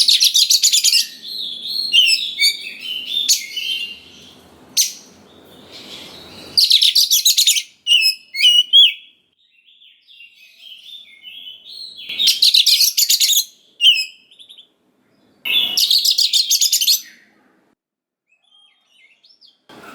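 Oriental magpie-robin singing: loud bursts of rapid, crowded notes, four in all, with quieter, varied whistled phrases between them.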